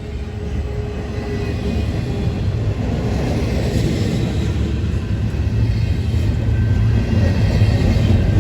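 A CN train approaching, its low rumble growing steadily louder.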